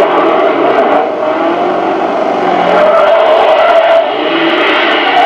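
Rally car engine revving hard at speed, its pitch rising and falling through a bend.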